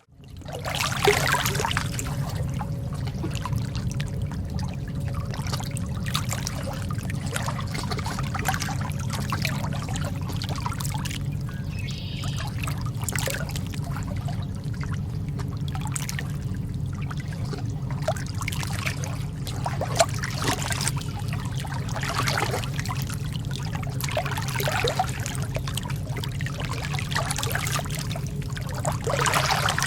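Calm lake water trickling and splashing lightly in irregular small strokes over a steady low rumble. It fades back in from a brief moment of silence at the very start.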